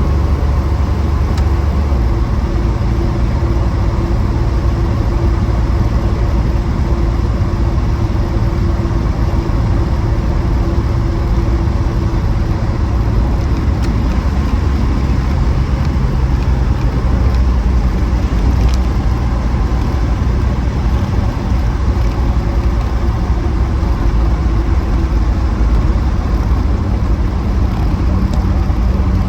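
Reliant Scimitar GTE SE5a on the move, heard inside the cabin: its Ford 3.0-litre Essex V6 running steadily under road and tyre noise. The engine note shifts about twelve seconds in.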